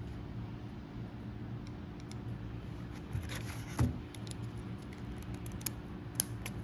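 Hand work on a hydraulic cylinder piston and its seals: scattered light clicks and taps of small parts being handled over a steady low hum, with a dull knock about four seconds in and two sharp clicks near the end.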